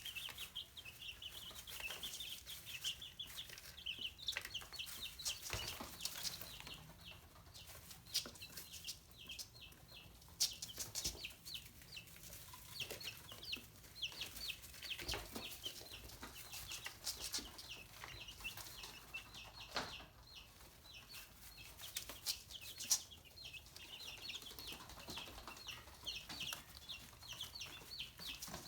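Young chicks peeping, a dense run of short high-pitched peeps many times a second, with scattered sharp taps.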